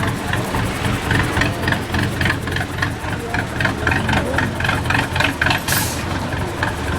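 Diesel truck engine idling with a steady, regular clatter. A short hiss comes just before six seconds in.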